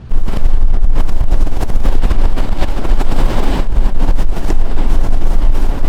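Strong gusting mountain wind buffeting the microphone: a loud, constant low rumble with crackling gusts that cuts in suddenly.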